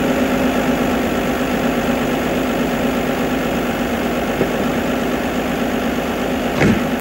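Vintage saloon car's engine idling steadily, with a brief louder sound near the end.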